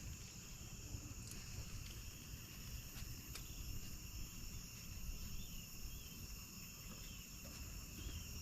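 Steady chorus of insects holding several high pitches, over a low rumble, with a couple of faint clicks.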